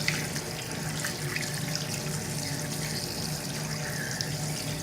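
Tap water running steadily into a sink as an action camera's circuit board is rinsed under it.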